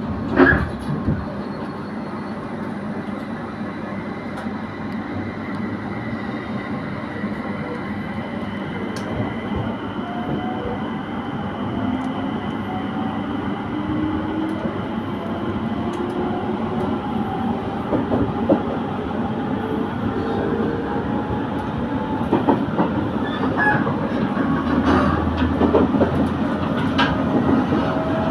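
IGR Iwate Galaxy Railway rapid train running, with a whine that rises slowly in pitch as the train picks up speed and the overall noise grows louder. A sharp knock comes about half a second in, and a few more near the end.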